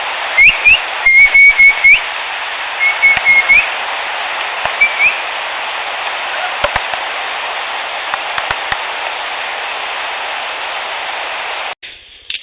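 Field recording with a steady hiss, over which come a quick series of sharp clicks and pops, each with a short rising squeak, in the first few seconds, then a few faint ticks. The recordist presents them as wild mouth 'snaps and pops' attributed to Sasquatch. The recording cuts off sharply near the end.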